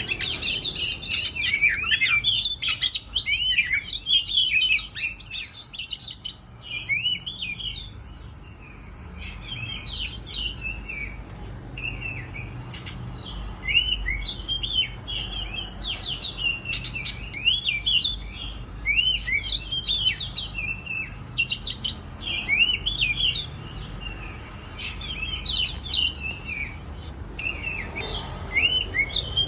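Oriental magpie-robin (kacer) singing: a rapid, dense run of whistled notes for the first six seconds, then quieter phrases repeated with short pauses.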